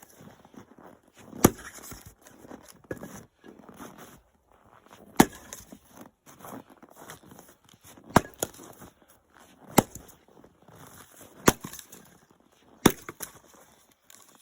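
Firewood being split by hand: six sharp strikes of a tool into wood, one to three seconds apart, with lighter wooden knocks between them.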